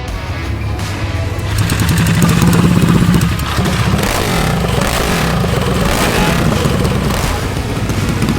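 Minibike engine running hard at full throttle, loudest for a second or so about two seconds in, then carrying on with a rapid steady beat.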